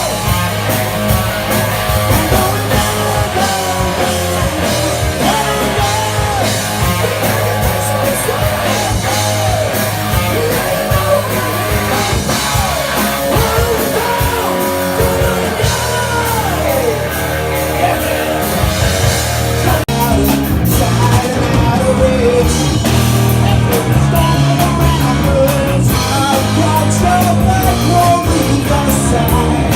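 A live rock band playing loud, with singing over electric guitars and drums. The sound breaks off briefly about two-thirds of the way in and comes back fuller and slightly louder.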